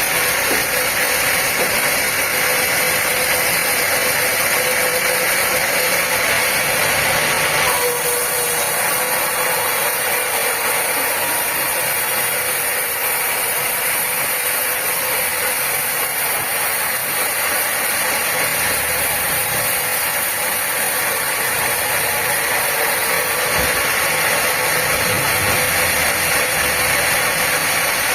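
Sawmill machinery running steadily: a loud, even mechanical noise with a strong hiss.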